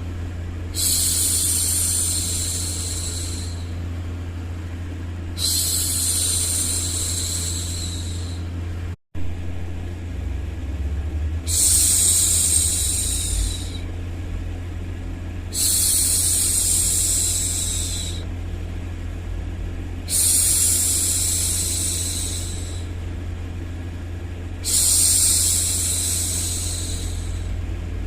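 A woman's voice hushing a long 'shhh', repeated six times, each lasting about two seconds and coming every four to five seconds, over a steady low white-noise hum.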